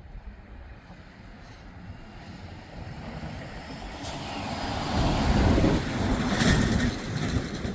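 A road vehicle passing close by: its tyre and engine noise builds from about three seconds in and is loudest near the end.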